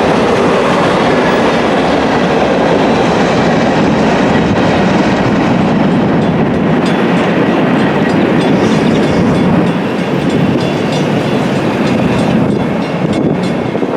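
A train rolling past with steady wheel and rail noise, and the wheels clicking over rail joints in the second half.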